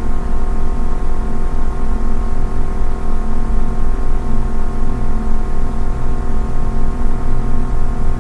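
Steady drone of several held tones layered over a hiss, at about speech level: ambient background music laid under the reading.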